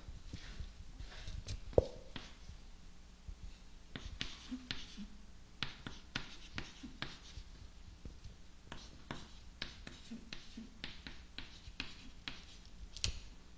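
Writing by hand: a run of short scratching strokes and taps as a diagram is drawn, with one sharper knock about two seconds in.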